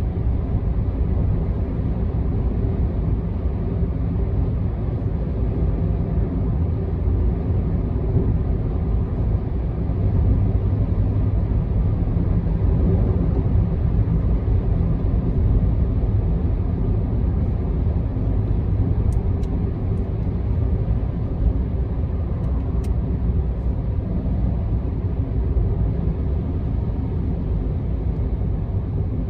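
A car driving on an expressway: a steady low rumble of tyre and engine noise, with a few faint clicks about two-thirds of the way through.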